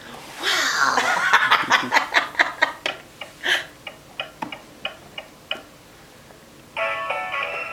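A person laughing in a run of short bursts that slow and trail off. Near the end, music begins.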